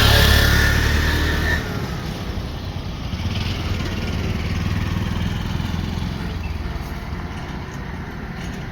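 Heavy diesel machinery engine running, loud with a thin high whine for the first second and a half, then dropping suddenly to a steadier low run that slowly eases off.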